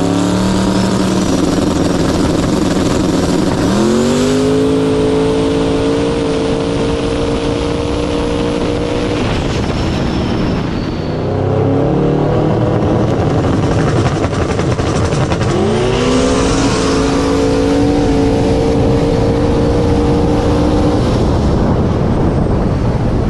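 Drag race car engine revving up again and again. Each time the pitch climbs quickly and then holds a steady high note for several seconds, the longest holds coming a few seconds in and in the second half.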